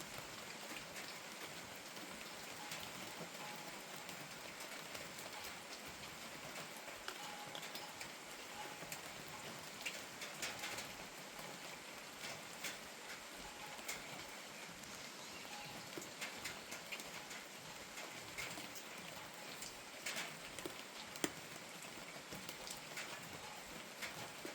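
Steady gentle rain, with many separate drops tapping on hard surfaces and one louder tap near the end.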